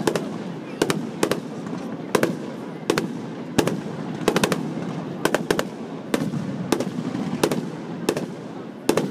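Aerial fireworks shells bursting overhead: sharp bangs at an irregular pace of about one to two a second, some coming in quick pairs.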